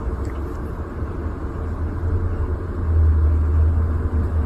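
A steady low rumble with a noisy hiss above it, growing louder about three seconds in.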